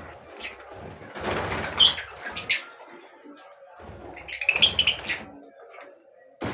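Birds calling in two bursts, one about a second in and one a little past the middle, with sharp high chirps over a low rumble.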